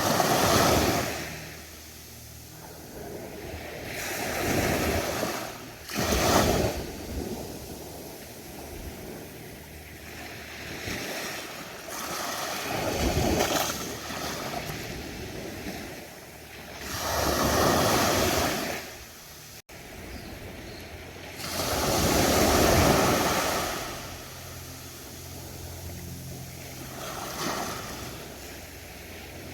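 Ocean surf breaking on a beach: a steady wash of water with a wave swelling and breaking every few seconds, about seven in all.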